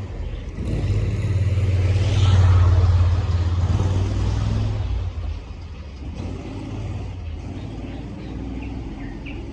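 A motor vehicle's engine rumble that swells to a peak a couple of seconds in and fades away after about five seconds, as of a vehicle passing close by, leaving a quieter hum.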